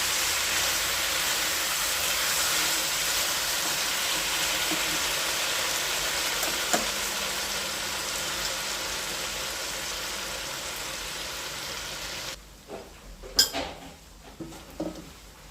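Chicken adobo sizzling in a frying pan, a steady hiss that cuts off abruptly about twelve seconds in, followed by a few short knocks and clinks.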